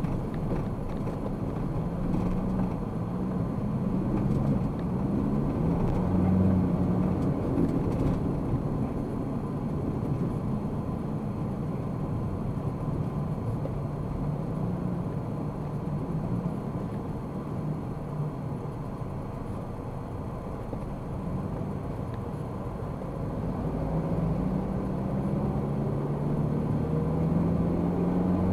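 Car driving, heard from inside the cabin: steady engine and road noise, with the engine note rising over the last few seconds as the car speeds up.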